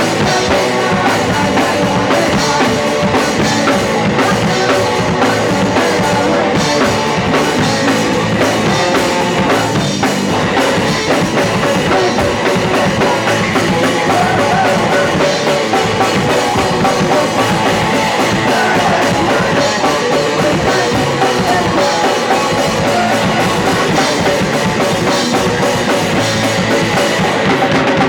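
Punk rock band playing live at full volume: distorted electric guitar, bass and a pounding drum kit, without a break.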